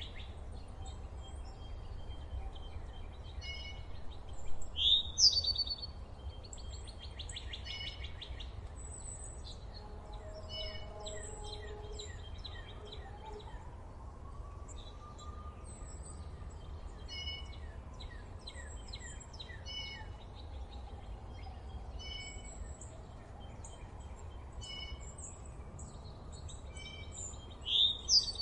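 Several wild birds singing and calling, with many short, high chirps and whistled notes repeating in the background. A louder, upward-sweeping call comes about five seconds in and again near the end. A steady low rumble runs underneath.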